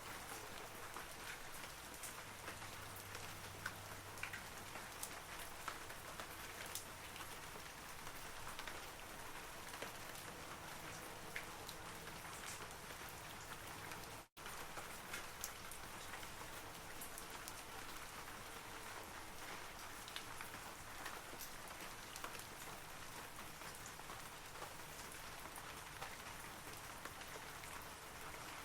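Steady rain falling on forest trees, an even hiss scattered with sharp ticks of individual drops. The sound cuts out for an instant about halfway through, then carries on unchanged.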